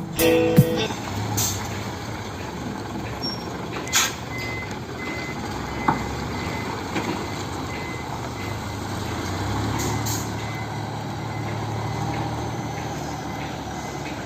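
Heavy diesel truck engine running steadily, rising a little in speed twice near the end, with a faint, repeated high-pitched warning beep in the first half and a few sharp clicks.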